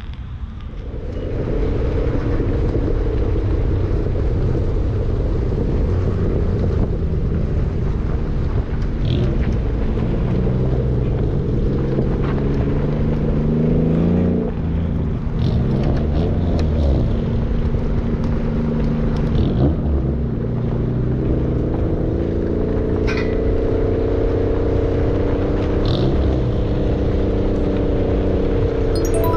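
Car engine pulling hard under acceleration, starting about a second in, its pitch climbing and then dropping sharply at gear changes.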